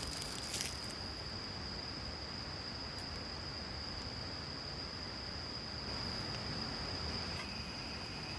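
Insects singing steadily in one continuous high-pitched tone; a second, lower-pitched insect song joins near the end.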